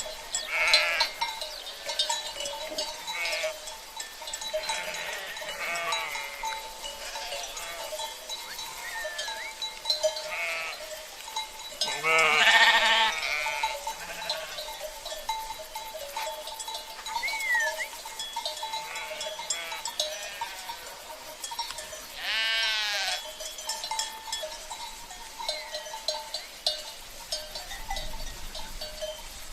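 A flock of sheep bleating again and again, the loudest bleat about twelve seconds in and another long one about twenty-two seconds in, over the steady ringing and clinking of cencerros (livestock bells).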